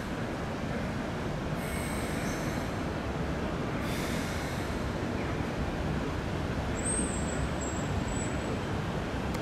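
Keikyu New 1000 series electric train rolling slowly in, with a steady rumble of wheels on rail. Thin high squeals from the wheels or brakes come briefly about two seconds in and again around seven to eight seconds.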